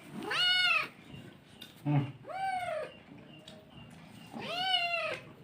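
A cat meowing three times, evenly spaced. Each meow is under a second long and rises then falls in pitch.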